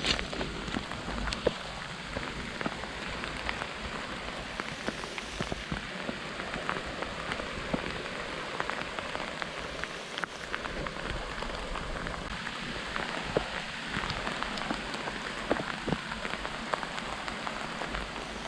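Falling snow pattering steadily as many small irregular ticks, like rain, with wind rumbling on the microphone now and then.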